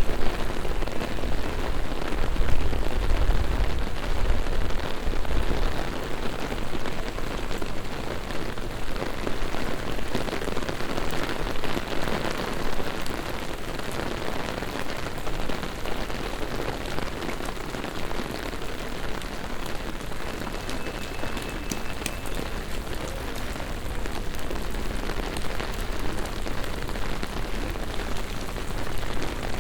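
Heavy rain falling on city pavements and surfaces: a steady hiss with dense patter of drops. There is a low rumble in the first few seconds.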